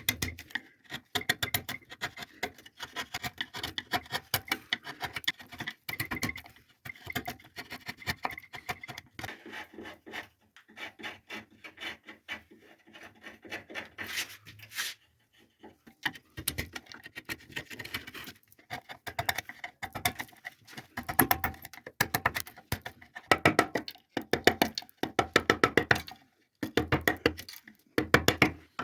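Hand carving tool cutting and scraping walnut wood in quick, irregular short strokes, with a brief pause about halfway through.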